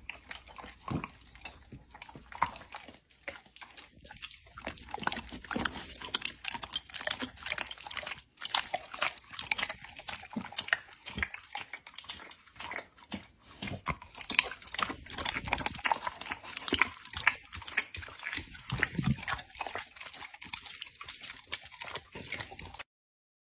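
A dog chewing and licking, making a long run of quick, wet mouth clicks and smacks that cuts off suddenly near the end.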